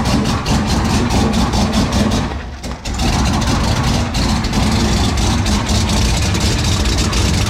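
The turbocharged GMC Sierra's engine idling on its first startup after a turbo kit install. It runs steadily, with a brief dip in level about two and a half seconds in.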